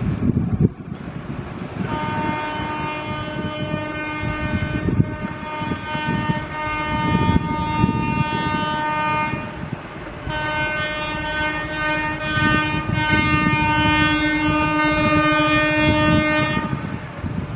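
Indian Railways electric locomotive horn sounding two long blasts, separated by a gap of about a second, over the rumble and rattle of a passing train's wheels on the track.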